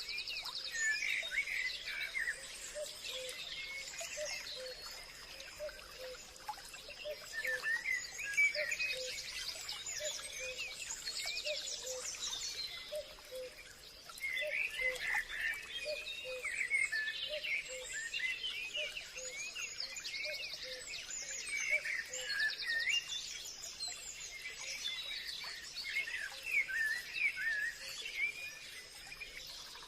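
Forest ambience: many birds chirping and trilling in recurring flurries over a steady high insect drone, with a run of short low notes repeating underneath.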